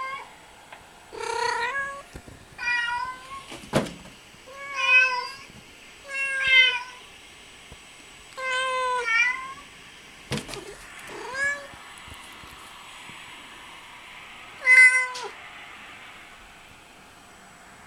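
A domestic cat meowing over and over, about seven drawn-out meows one to three seconds apart, calling while she searches for another cat. Two sharp knocks come between the meows.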